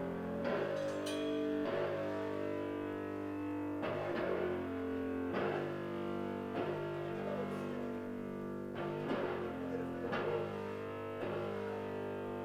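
Band guitar playing ringing chords, a new chord struck about every second or so and left to sustain between strikes.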